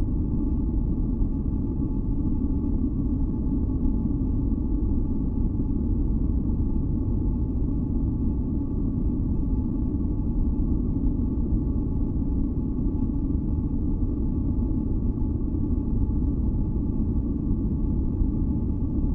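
Steady masking noise for sleep, deep and bass-heavy rather than hissy, with a few faint steady tones held above it; it does not change.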